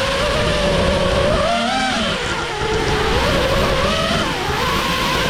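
FPV racing quadcopter's motors and propellers whining over a loud rush of prop wash, the pitch rising and falling with the throttle.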